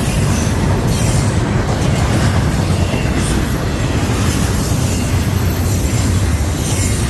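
Norfolk Southern freight train passing close by: a steady, loud rumble of wheels running on the rails, with a faint high squeal.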